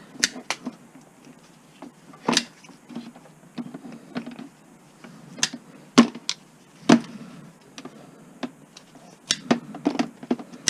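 Irregular sharp clicks and snips of scrap copper wire being cut and stripped by hand, a few seconds apart, with quick pairs near the start and near the end.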